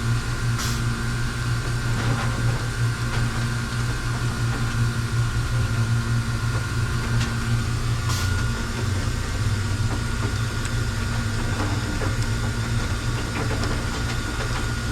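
A steady low mechanical hum from running machinery, with a few faint clicks.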